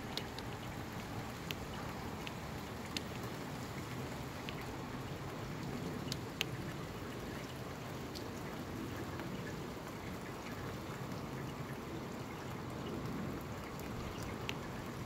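Steady rain falling, with scattered single drops tapping sharply on nearby surfaces.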